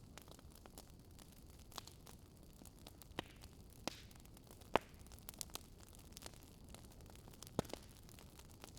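Wood fire crackling in a fireplace: scattered sharp pops and snaps over a faint steady hiss, the loudest pop a little before halfway.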